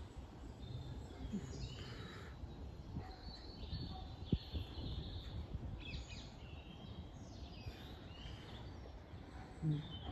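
Small birds chirping and calling in short scattered phrases over a steady low outdoor rumble. There is a sharp click about four seconds in and a brief low thump near the end.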